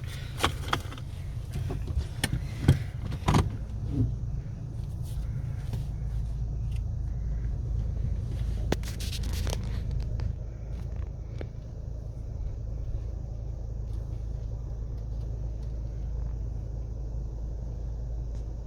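Car engine running steadily with a low rumble, with a few sharp clicks and knocks in the first few seconds.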